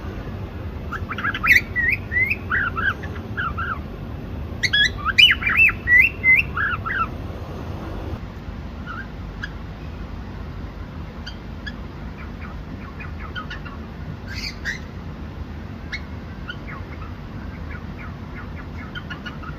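Cockatiel chirping in two loud runs of quick, bending chirps in the first seven seconds, then fainter scattered chirps, over a steady low background noise.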